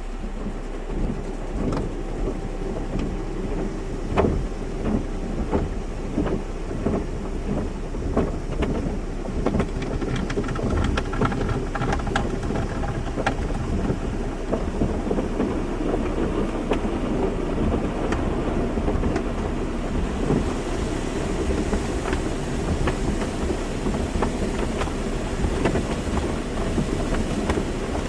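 Automatic car wash running: water spray drumming on a car's body, with many irregular knocks and patters over a low steady hum. A higher spray hiss grows stronger about two-thirds of the way in.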